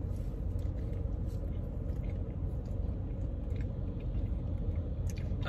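A person biting into and chewing a grilled cheese burger on Texas toast, with a few faint mouth clicks over a steady low hum.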